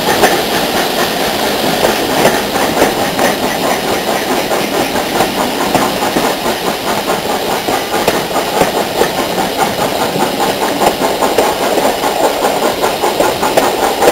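Steam locomotive working hard, a steady rapid chuffing of exhaust beats with the hiss of steam.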